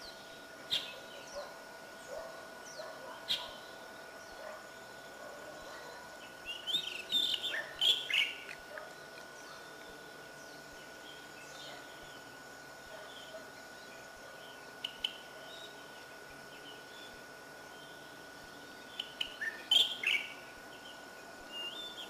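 Birds chirping: scattered short calls, with a busier run of several calls about a third of the way in and again near the end, over a faint steady hiss and a thin steady high tone.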